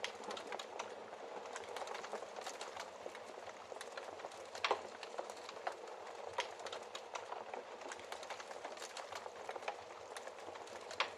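Wood fire burning in a fireplace, crackling steadily under a soft hiss, with frequent small snaps and a few sharper pops, the loudest about halfway through.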